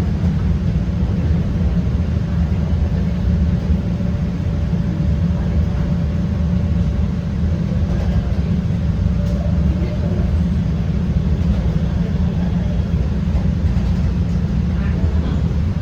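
CTA Red Line rapid-transit train running at speed, heard from inside the car: a steady, loud low rumble from the wheels on the rails, with a faint steady whine over the first two-thirds.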